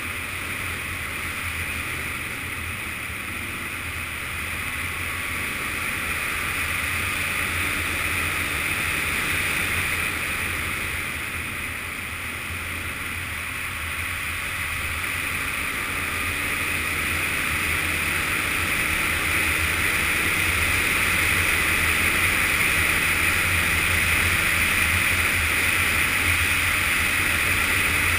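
Yamaha FZS600 Fazer's inline-four engine running under way, mixed with steady wind rush. The sound grows gradually louder through the second half.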